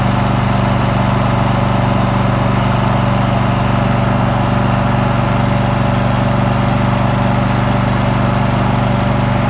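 Riding lawn mower's engine running steadily at an even speed while the mower is driven along.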